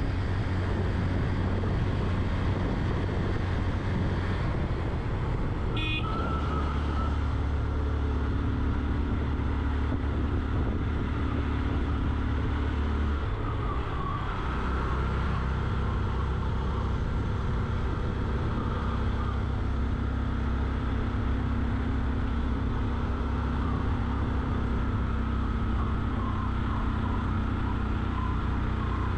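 Suzuki GSX-R motorcycle engine running steadily at riding speed, its pitch shifting about halfway through. A short high tone sounds about six seconds in.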